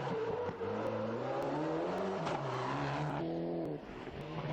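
Rally car's turbocharged engine at full throttle on a stage, its note sliding down and up as it changes gear. About three seconds in it lifts off briefly, then the note climbs again as it accelerates.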